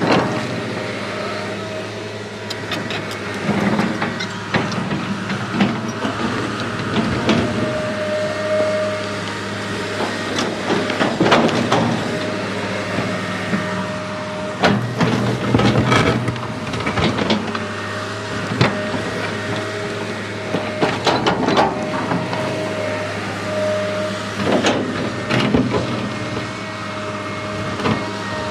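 Small electric motors and gearboxes of a remote-control toy construction vehicle whirring steadily, with irregular clicks, clatter and scraping throughout.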